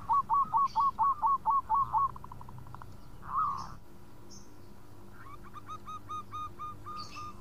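Zebra dove (perkutut) cooing: a fast run of about ten short hooked notes, roughly five a second, for the first two seconds, a single call a second later, then a fainter, slower run of similar notes near the end.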